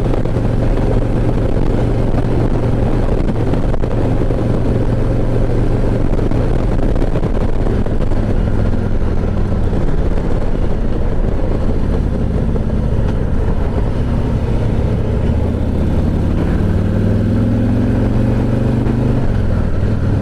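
Harley-Davidson V-twin touring motorcycle engine running steadily under way, with wind and road noise. In the last few seconds the engine note rises as the bike accelerates.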